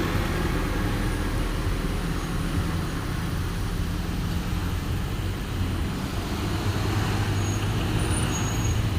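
Heavy road vehicle's engine running with a steady low hum, over traffic noise.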